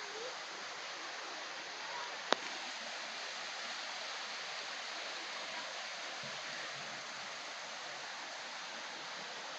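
Steady rushing of a small stream's flowing water, with one sharp click a little over two seconds in.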